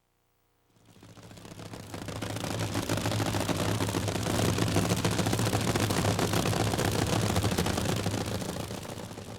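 Race car engine running with a rapid, clattering beat and a low steady drone, fading in after a second of silence and easing off near the end.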